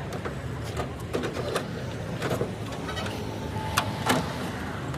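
A car engine running steadily, with scattered clicks and knocks over it.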